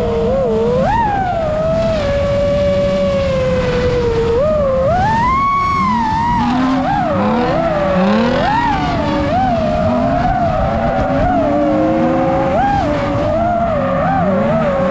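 Whining motors: a steady high whine that keeps swooping up and down in pitch, with shorter rising revs underneath.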